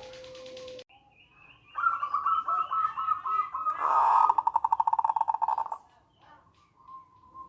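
Zebra dove (perkutut) calling: from about two seconds in, a string of quick cooing notes runs into a fast stuttering rattle (the 'nretek') that stops abruptly about four seconds later. A fainter call sounds at the start and near the end.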